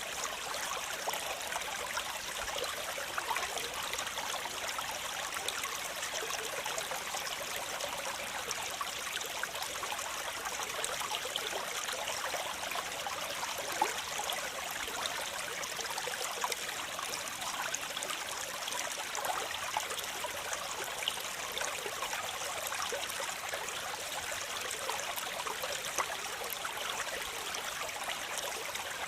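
Waterfall: water splashing and rushing steadily, bright and hissy with little low rumble.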